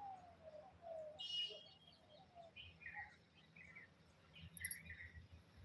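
Birds chirping faintly: scattered short chirps, with a low series of short falling notes in the first two seconds or so. A brief sharp click about four and a half seconds in is the loudest sound.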